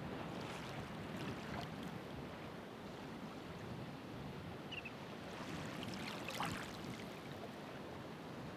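Ocean waves breaking and washing on the shore: a steady surf hiss with two louder splashing surges, one about half a second in and another around six seconds in.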